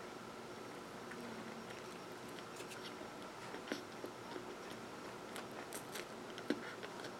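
A person chewing a mouthful of baked sesame-topped roll, with a scatter of soft mouth clicks and small crunches over a faint steady hiss.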